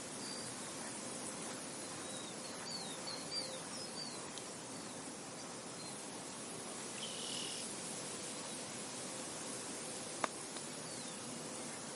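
Soft wind blowing steadily over a field, with a few short bird chirps about three seconds in and again around seven seconds, and a single sharp click near the end.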